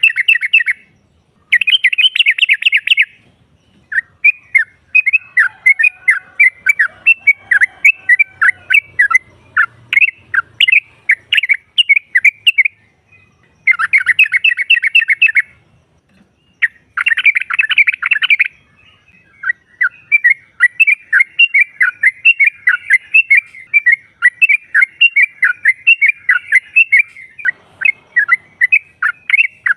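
Yellow-vented bulbul calling: loud bursts of rapid chattering notes and longer runs of quick bubbly notes, with short pauses between phrases. This is a lure call, the female's call to the male.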